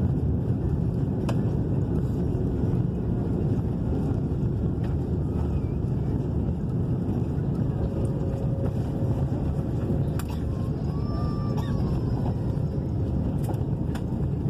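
Steady low rumble of engines and airflow heard inside an Airbus A330's passenger cabin, with a few faint clicks.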